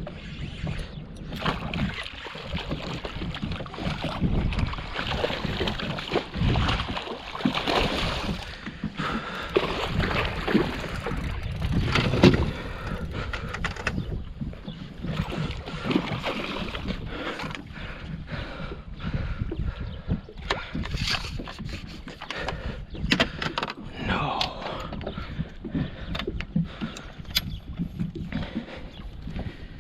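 Small fishing boat out on the water: an irregular wash of noise with many short knocks and clicks.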